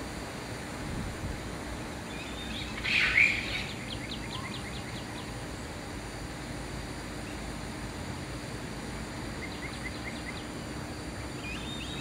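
Wild birds calling over a steady background hiss: one loud call about three seconds in, then a quick run of short repeated notes, and a few fainter short notes near the end.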